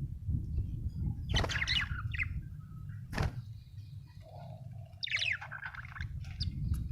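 Budgerigar chirping in two bursts of quick, high warbling notes, the first about a second in and the second about five seconds in. A sharp click falls between them, over a steady low rumble.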